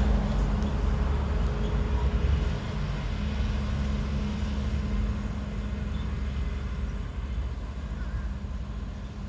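Diesel engine of a Mack garbage truck with a McNeilus front-loader body running with a steady low drone that gradually gets quieter.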